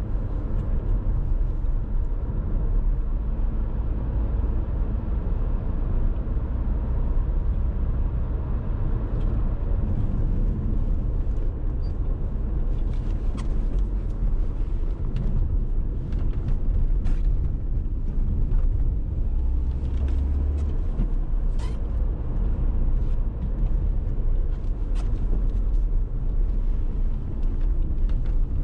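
Dacia Duster 1.6 SCe with its naturally aspirated four-cylinder petrol engine, driving: a steady low engine and road rumble. Scattered short sharp knocks and clicks come in from about a third of the way through.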